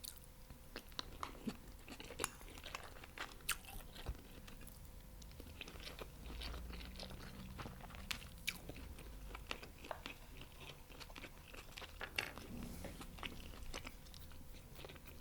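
Close-miked chewing and crunching of crispy fried chicken wings, with irregular sharp crunches throughout.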